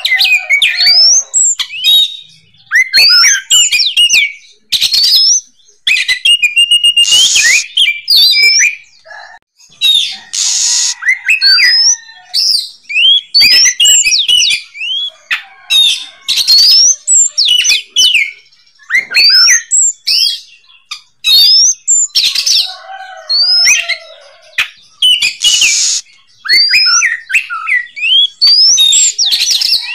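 Oriental magpie-robin (kacer) singing loudly and without let-up: a varied song of quick rising and falling whistles, broken every few seconds by short harsh rasping bursts.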